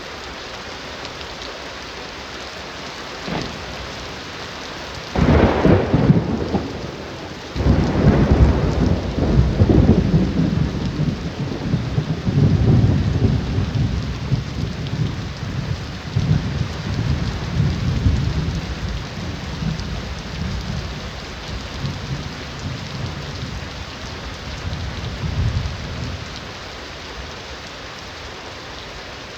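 Heavy rain falling steadily, with a thunder clap about five seconds in that cracks again a few seconds later and rolls into a long rumble fading away over the next twenty seconds.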